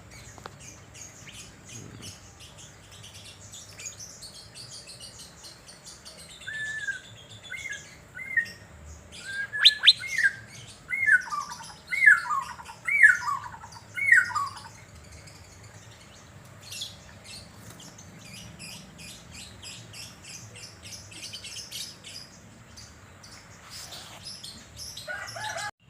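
Asian fairy-bluebird (cucak biru) calling: a run of about nine loud, liquid whistled notes, each rising and then falling, from about 6 s to 14 s in. Softer high chirps come and go around them.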